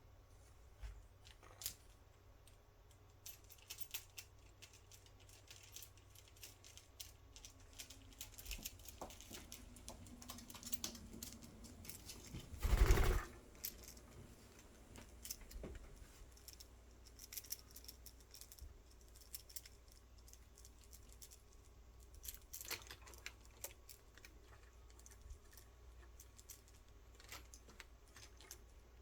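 Scattered light clicks and taps, irregular and faint, with one louder rustling burst lasting about a second near the middle.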